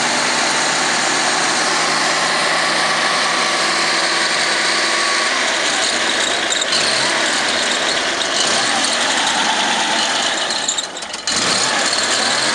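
Air-cooled rear-mounted V8 of a 1959 Tatra 603 running at idle, just after being started. Its note shifts slightly after about five seconds, and there is a brief dip in level near the end.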